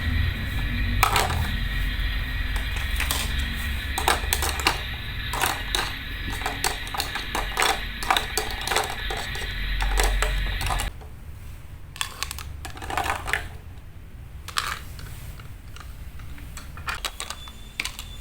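Small utensils clinking and tapping on miniature cookware, in quick irregular strokes. A steady hum runs underneath and cuts off suddenly about eleven seconds in, leaving sparser taps.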